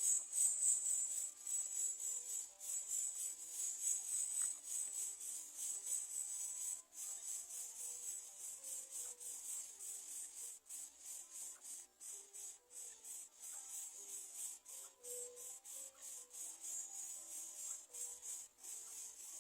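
Steady, high-pitched chorus of insects, flickering throughout, with faint scattered tones below it.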